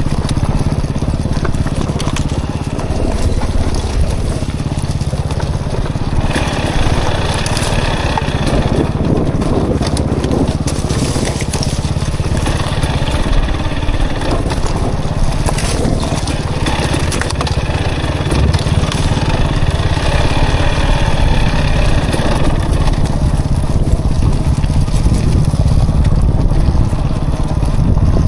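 Dirt bike engine running under changing throttle while riding single track, with heavy wind rumble on the microphone.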